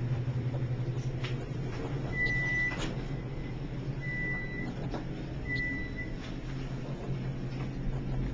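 Baxter & Sons traction elevator car travelling down: a steady low hum of the car in motion, with three short high electronic beeps a second or two apart and a few faint clicks.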